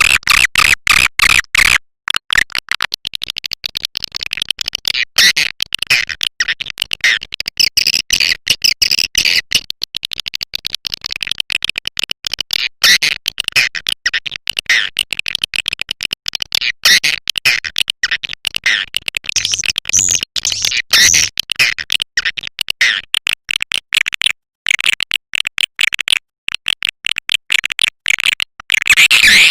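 Swiftlet calling-sound recording used as a lure for swiftlet houses: dense, rapid high chirps and twitters, chopped by frequent short gaps.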